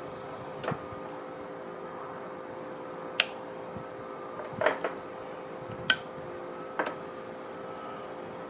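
A small electric motor runs with a steady hum made of several fixed tones. Five short, sharp clicks or knocks fall at uneven intervals over it.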